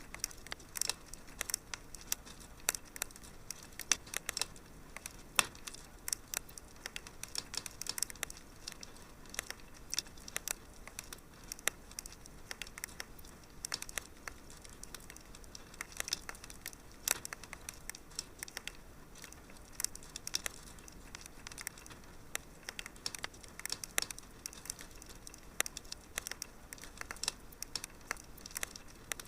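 Wood fire crackling in a fireplace: many sharp, irregular pops and snaps over a soft, steady hiss.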